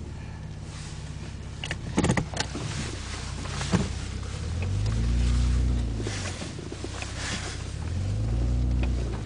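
Toyota Crown GS131's 1G-GZE supercharged straight-six heard from inside the cabin at low speed, its note rising and falling twice as the throttle is opened and eased off. A few short knocks sound in the first half.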